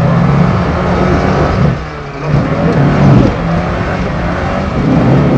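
A small Suzuki Samurai-type 4x4's engine revving under load as it crawls over rocks. The engine eases off briefly about two seconds in, then revs up again.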